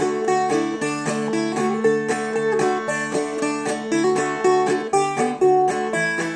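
Seagull Merlin, a four-string fretted dulcimer, played clawhammer style. Quick plucked melody notes and strums ring over a steady open drone string.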